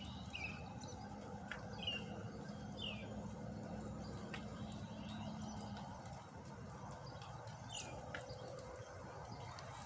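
Bird calling outdoors: short down-slurred chirps repeated about once a second, a pause, then another call near the end. Under it runs a steady low hum that stops about six seconds in.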